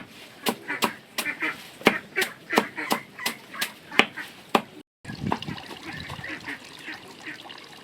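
Ducks quacking and honking, with a rapid series of sharp knocks, about three a second, that stop abruptly about five seconds in.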